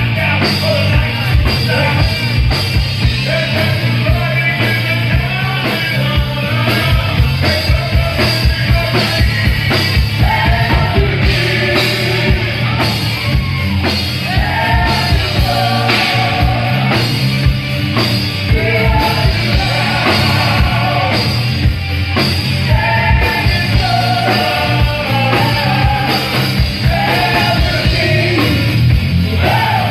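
Live rock band playing loudly, with a singer belting the vocal over drums with a rapid bass-drum pulse. The singing comes in mostly from about a third of the way through.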